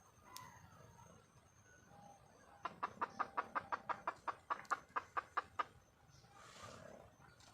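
Wild jungle fowl hen clucking in a quick run of about fifteen calls, about five a second, lasting some three seconds: the hen's call to a mate.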